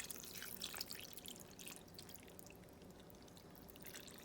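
Water poured from a measuring cup into a pot of chili, a faint liquid pour that thins out after about two seconds.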